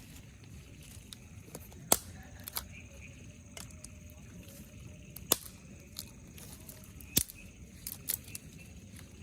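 Scattered sharp ticks, about half a dozen at irregular intervals, the loudest about two seconds in and again near five and seven seconds, over a steady low hiss.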